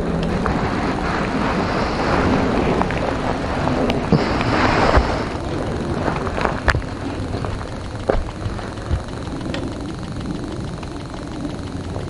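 Single-cylinder four-stroke trail motorcycle running steadily under wind noise, with a brief hiss about four seconds in and scattered sharp knocks.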